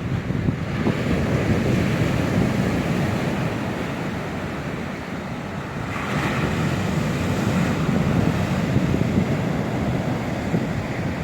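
Stormy sea surf breaking on the shore, with strong wind buffeting the microphone in a heavy low rumble. A brief louder hiss comes about six seconds in.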